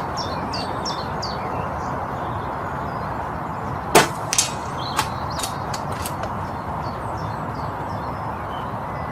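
A single sharp shot from a Brocock Concept PCP air rifle about four seconds in, followed by a few lighter clicks. A steady hiss of background noise runs underneath, with birds chirping at first.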